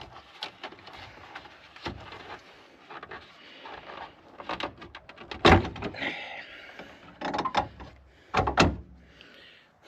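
Plastic clicks and knocks as a stiff twist-lock bulb socket is worked loose from a truck's headlight housing by hand, with the loudest knocks about five and a half and eight and a half seconds in.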